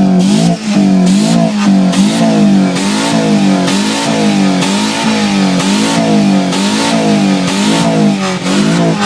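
An engine revving hard, its pitch dipping and rising again in a regular pattern about twice a second.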